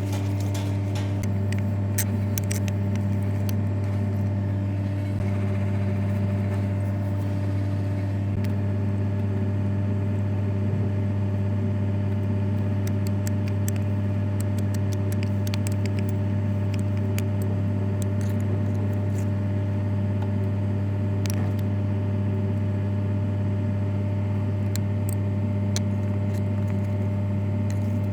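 A heavy machine's engine running steadily, giving a loud, even low hum that holds one pitch, with scattered light clicks and ticks over it.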